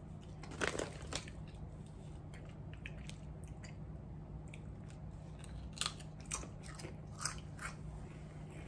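A person biting into and chewing ridged Ruffles potato chips: a few sharp crunches about half a second in, then quieter chewing and another run of crunches around six to seven and a half seconds in, over a steady low hum.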